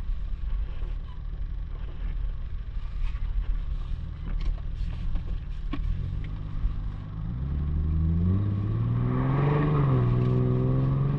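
Infiniti G37's VQ37VHR V6 with the muffler and resonator deleted, running with a low steady drone at light throttle. About six seconds in it accelerates, its pitch rising for a few seconds before levelling off at higher revs.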